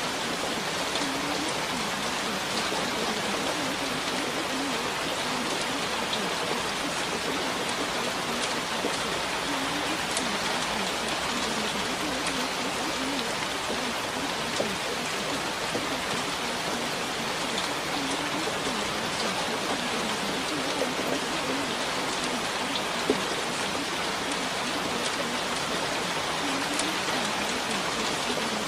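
Steady rain falling, an even hiss with individual drops ticking through it and a couple of louder single drops.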